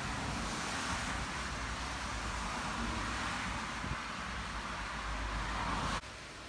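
Steady rushing outdoor noise with a low rumble, with no distinct events. About six seconds in it drops abruptly to a quieter hiss.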